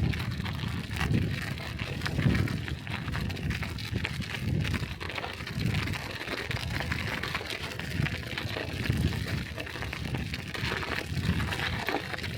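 Bicycle ridden over snowy streets: a steady hiss of tyres on snow, with low buffeting pulses roughly once a second.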